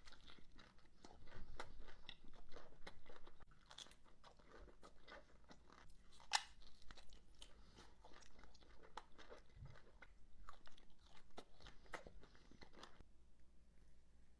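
Close-up eating of fresh fruit: crisp, wet crunching and chewing in irregular bites, with one sharp crunch about six seconds in.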